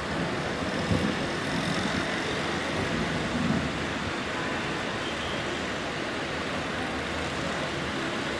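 Steady heavy rain with street traffic, with a few louder swells in the first four seconds.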